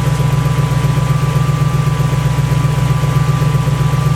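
Lexus 1UZ-FE 4.0-litre V8 idling steadily just after its first start. A thin steady whine sits over the idle, which the owner hears as the power steering pump growling while it is low on fluid.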